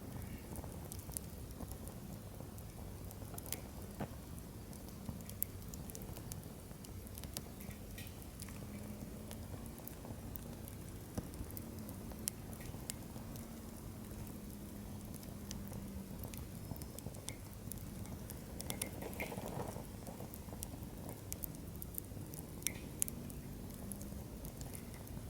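Firewood burning in a campfire, crackling and popping irregularly over a low steady rumble of flame.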